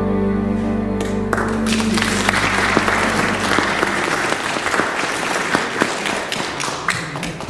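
The last held chord of the music rings out and stops a little over a second in, as the congregation breaks into applause. The clapping is dense and steady, then thins out near the end.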